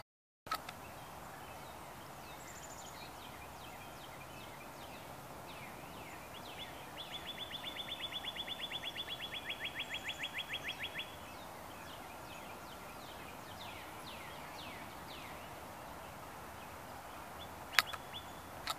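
Woodland birdsong: many short, downward-slurred chirps throughout, and from about seven seconds in a steady, rapid trill of evenly repeated notes lasting about four seconds. A sharp click comes near the end.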